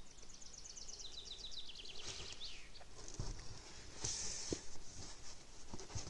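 A small bird sings a fast trill that steps down in pitch over the first couple of seconds. After that come scattered clicks, knocks and rustles of hands handling the plastic model, its wheels and packaging in a foam-lined cardboard box.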